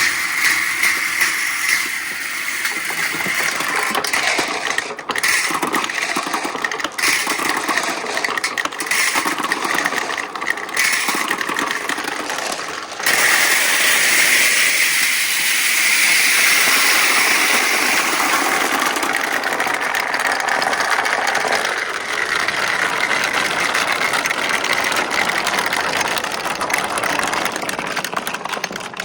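Marbles rolling down a four-tier slope marble run: a continuous rattling roll. It grows louder about halfway through.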